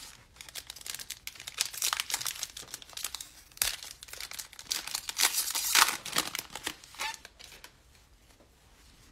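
Foil wrapper of a trading card pack crinkling and tearing as it is opened, a run of rustles loudest a little past halfway, then dying down about two seconds before the end.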